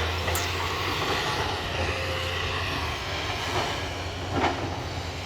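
Heavy demolition machine's engine running steadily with a low drone, with a short knock about four and a half seconds in.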